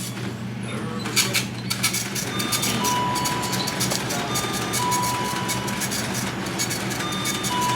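Steady low hum of big idling trucks under background music with a fast ticking beat and a few short held tones.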